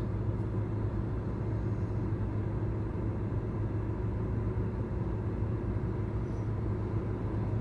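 Car engine idling, heard from inside the parked car's cabin as a steady low hum.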